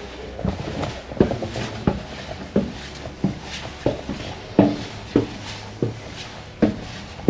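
Footsteps walking at a steady pace, about three steps every two seconds.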